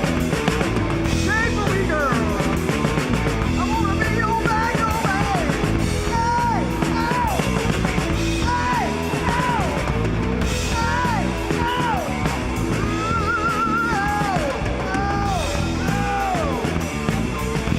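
Live rock band playing loud, with a high lead line of short notes that bend and fall in pitch over a steady driving beat.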